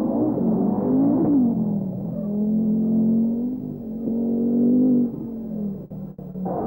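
Rally car engine running hard on a stage, its pitch rising and falling with throttle and gear changes, with a sharp rise about a second in and a drop in level about five seconds in.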